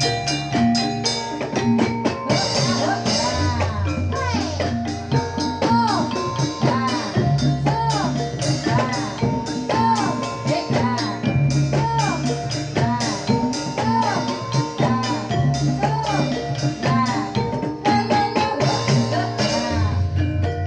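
Live Jathilan dance accompaniment in the Javanese gamelan style: struck metallophone notes and drums over a steady bass, with a melodic line that swoops up and down in short repeated arcs.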